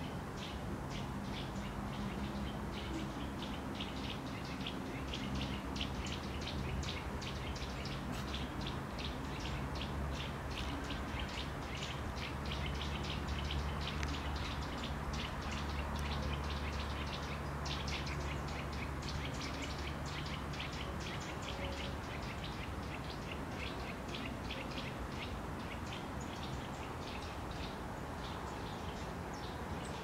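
Small songbirds chirping and calling in a dense run of short, high notes, several a second. A low steady hum runs underneath, strongest in the middle.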